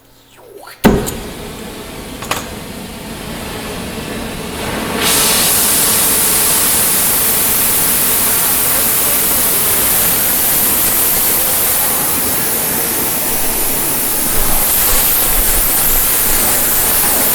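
Gas torch lit with a sharp pop about a second in, then its flame hissing steadily, turned up to a louder, even hiss about five seconds in as it heats a driveshaft U-joint yoke.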